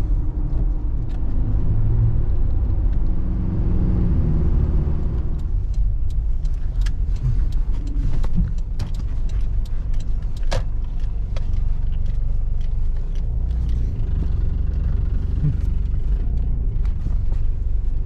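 A car driving: steady low engine and road rumble, with a pitched engine note for the first few seconds and scattered light clicks and knocks after that.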